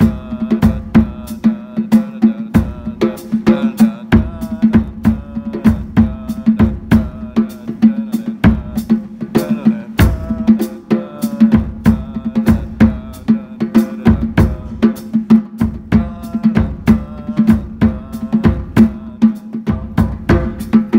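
Drum kit played with the hands and fingers, slapping toward the drum edges conga- and timbale-style, with bass drum and a steady ticking hi-hat keeping time. It is a continuous odd-meter groove of mixed 3/4 and 9/8 bars.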